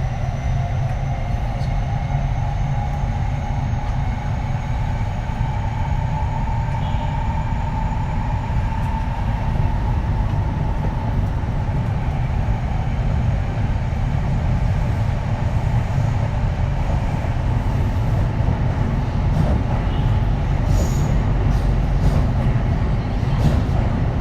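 Kintetsu 3220 series train running, heard on board. Its Hitachi IGBT inverter and traction motors give a whine that rises slightly in pitch over the first several seconds and then fades, over a steady rumble of wheels on rail. A few clicks come near the end.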